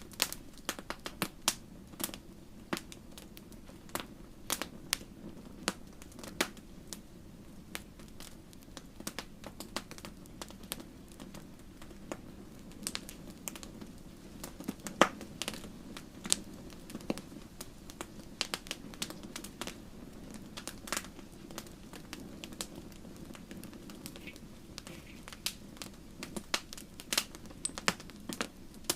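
Wood fire crackling: irregular sharp pops and snaps, several a second, over a steady low rush of flames.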